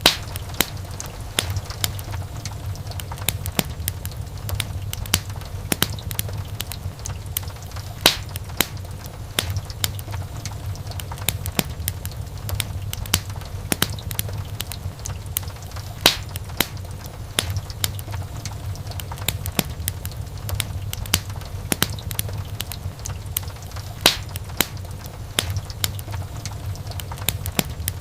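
Wood fire in a fireplace crackling, with irregular sharp pops and a few louder snaps over a steady low rumble of the flames.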